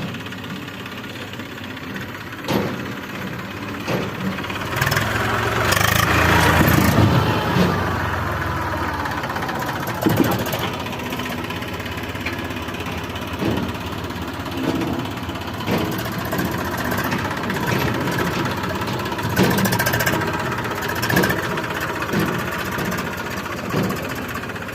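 JCB 3DX backhoe loader's diesel engine running, revving up hard for a few seconds about a fifth of the way in before settling back. Sharp clunks and knocks come every few seconds.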